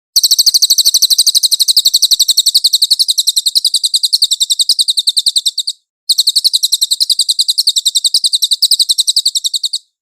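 Cililin song: a fast, even trill of high chirps, about a dozen a second, in two long runs with a short break about six seconds in.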